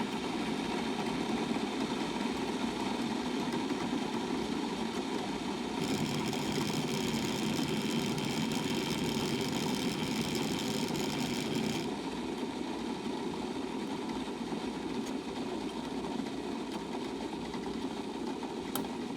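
Bunn Trifecta MB single-cup brewer running mid-brew, a steady machine hum. About six seconds in, a louder, hissier rush starts and lasts about six seconds: a turbulence cycle, air being forced through the coffee in the brew chamber.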